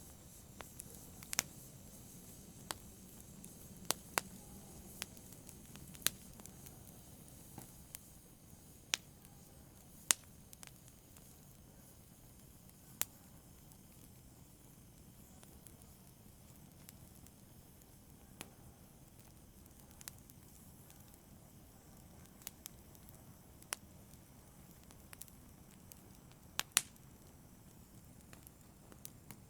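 Fire in a brazier crackling: sparse, irregular sharp pops over a soft, steady hiss, with a close double pop near the end the loudest.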